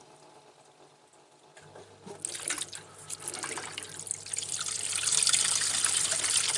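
Dishwasher drain pump starting about a second and a half in with a low steady hum, followed by water rushing out through the drain, growing louder as the machine pumps out its water.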